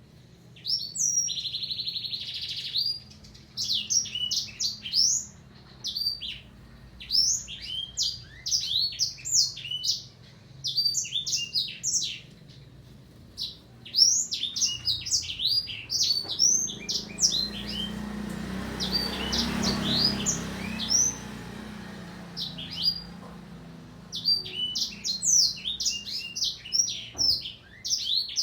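Black-throated canary singing: repeated bursts of quick, high sweeping notes with short pauses between phrases, and a brief even trill near the start. A low rushing noise rises under the song in the middle.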